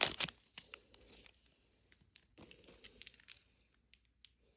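Small plastic wrappers from a Mini Brands capsule being torn open and crinkled, with a quick burst of sharp clicks at the start and scattered crackles after.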